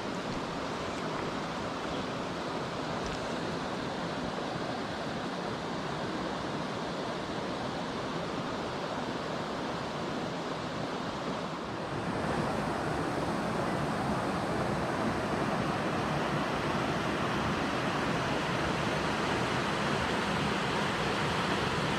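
Mountain stream water rushing, a steady wash of noise that grows louder about halfway through.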